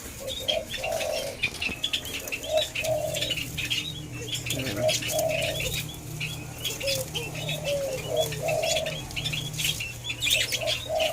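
White-eared brown doves cooing: pairs of short low notes repeated about every two seconds, over many small clicks and high chirps.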